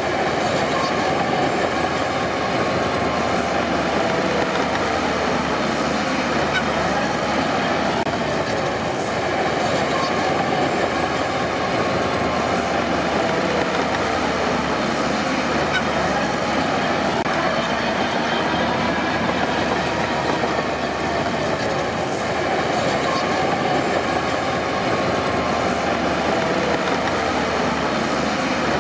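Crawler bulldozer working: a steady diesel engine drone with the metallic squeal of its steel tracks, wavering up and down in pitch.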